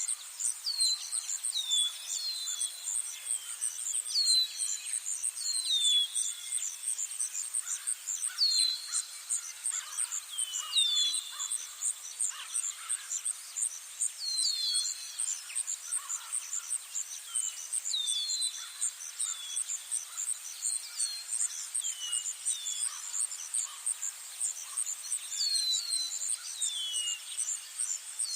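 Insects trilling in a steady, high, even pulse throughout, with birds calling in short falling whistled notes, often in pairs, every second or two.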